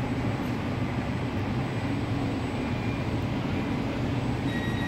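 SBB electric intercity train at the platform, giving a steady low rumble and hum; near the end a steady high whine sets in over it.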